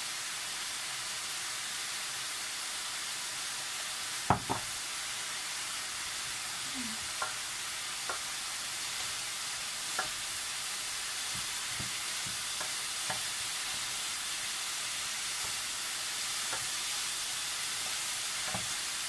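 Chicken pieces sizzling steadily in a frying pan, with occasional sharp knocks of a utensil against the pan, the loudest a quick double knock about four seconds in.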